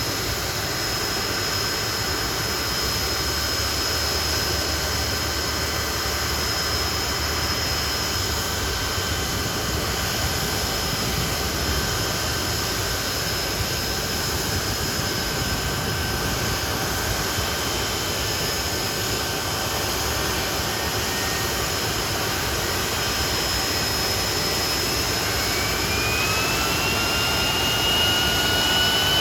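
Hawker Siddeley Nimrod's Rolls-Royce Spey turbofan engines running on the ground with a steady whine. Near the end a higher whine starts rising in pitch and the sound grows a little louder as an engine spools up.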